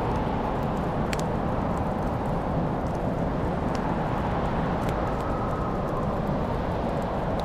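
Wood fire in a fireplace giving a few sharp crackles and pops over a steady low rumble.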